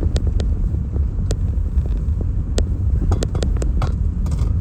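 Steady low road rumble of a moving car heard from inside, with scattered light clicks and ticks.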